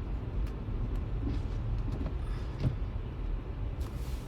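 Steady low rumble of a car's engine and tyres on a snowy road, heard from inside the cabin while driving, with a few faint ticks.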